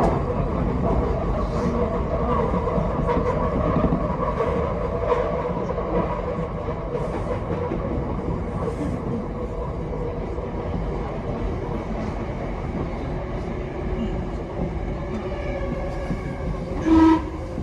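Tokyo Metro 10000 series electric train running at speed, with a steady rumble of wheels on rail and a steady mid-pitched hum from the running gear. Near the end a short, loud horn-like blast of several tones sounds once.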